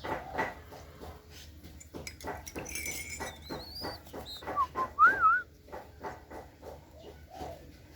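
Spotted dove being fed: a steady run of quick taps and pecks, with a few short whistle-like squeaks, loudest about five seconds in.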